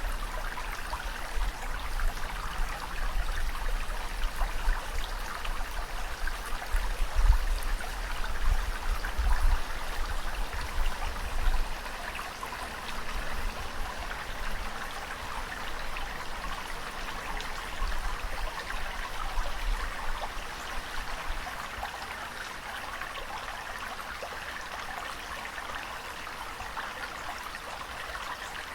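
Ocean water washing and trickling steadily, with low rumbling through the first half that fades away later on.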